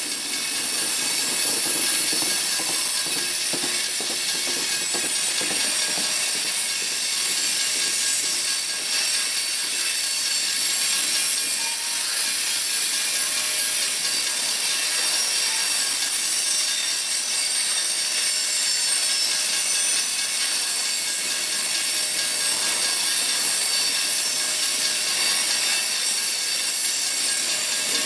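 Freight train of covered hopper cars rolling past at a crossing: a steady, mostly high-pitched wheel-on-rail noise.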